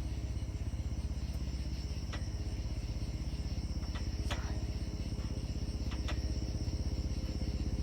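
Bell 206 LongRanger helicopter flying low overhead: a steady, rapid low beat from its two-blade main rotor over a low rumble. Crickets chirp in a steady high trill underneath.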